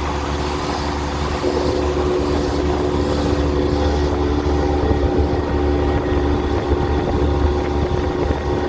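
Jet ski engine running steadily, with a strong low rumble and a steady hum that holds one pitch; it grows slightly louder over the first couple of seconds.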